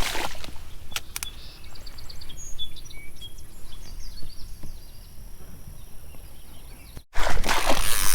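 Small birds chirping in short, high calls over a steady low outdoor background. A couple of clicks come about a second in, and near the end there is a brief dropout followed by a loud burst of rushing noise.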